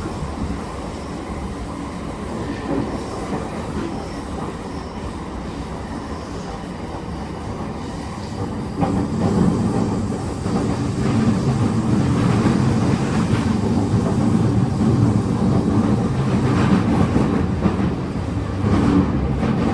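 Running noise of a JR E231 series electric commuter train heard inside the passenger car: a steady rumble of wheels on the rails with some clickety-clack. It grows louder and heavier about nine seconds in.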